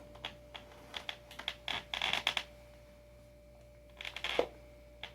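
Hand tool clicking and scraping against skateboard truck bolts and nuts in short bursts while someone tries to loosen them. One cluster of clicks runs from about half a second to two and a half seconds in, and a second comes near four seconds.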